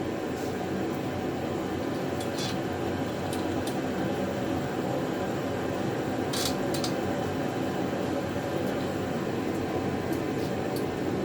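Steady air-conditioning hum with about half a dozen light clicks and taps scattered through it, from metal cart parts being handled during assembly.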